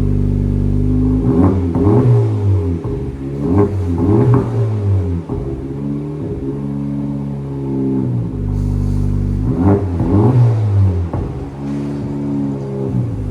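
2024 Honda Civic Type R's 2.0-litre turbocharged four-cylinder, breathing through an AWE cat-back exhaust, idling and then free-revved in quick double blips three times, each rev rising sharply and falling back to idle.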